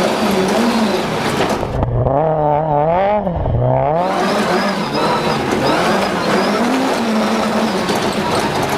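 Ford Escort RS1800's BDA twin-cam four-cylinder rally engine driven hard, revs repeatedly rising and falling through the gears. Around two seconds in, the sound goes briefly duller for about two seconds.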